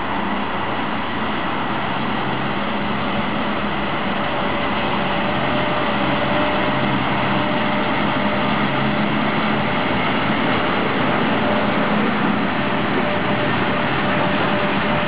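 Freight train passing close by, hauled by an electric locomotive: a steady rolling rumble of the freight wagons' wheels on the rails, with a steady electric hum underneath.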